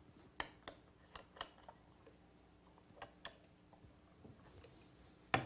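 Light, scattered clicks and ticks from a scraper plane being handled while its blade depth is set, ending in a single sharper knock.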